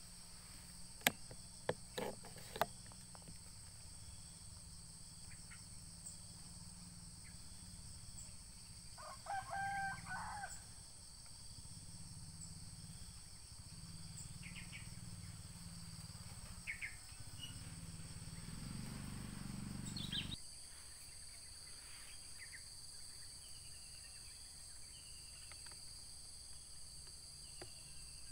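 Steady high drone of insects, with a few sharp clicks about one to three seconds in and a rooster crowing once around nine seconds in.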